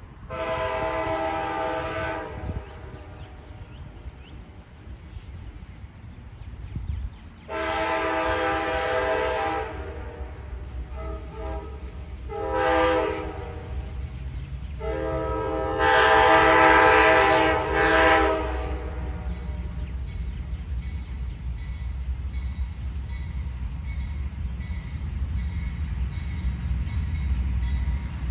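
Amtrak Silver Meteor locomotive's multi-chime air horn sounding the long-long-short-long grade crossing signal as the train approaches. A steady train rumble builds underneath and after it.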